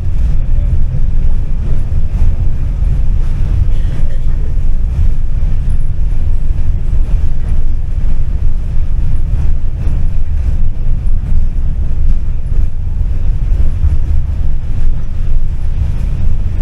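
Tram running along its rails: a steady, loud, low rumble.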